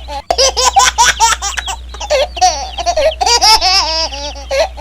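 High-pitched laughter, like a baby's or a sped-up voice, in quick repeated gliding syllables, over a steady low hum.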